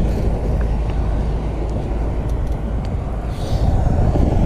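Wind buffeting the microphone of a camera on a moving bicycle, a steady low rumble, with a brief hiss about three and a half seconds in.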